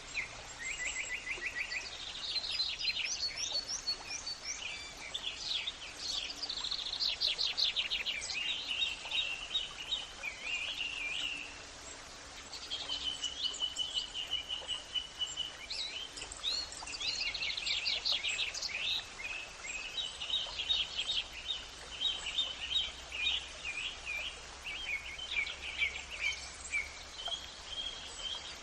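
Several birds singing over one another: rapid trills and chirps, with one held whistled note a little under halfway through, over a faint steady background hiss.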